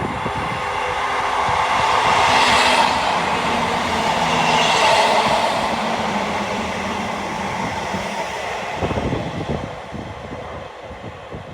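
Class 158 diesel multiple unit moving through the station close by, with wheel and engine noise swelling over the first few seconds and dying away about nine seconds in.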